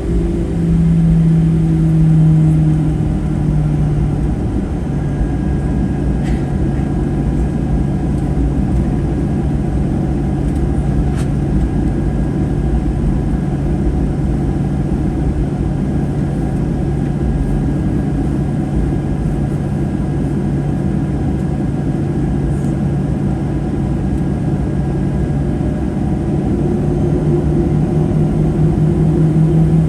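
Cabin noise of a Boeing 737-800 heard from inside, near the front: a steady rumble from its CFM56-7B jet engines with a low hum that drops in pitch about four seconds in and rises again near the end.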